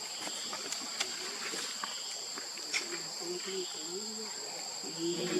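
Insects, crickets or cicadas, droning steadily with two high unbroken tones, with scattered small clicks. Faint voices come in about halfway through and grow louder near the end.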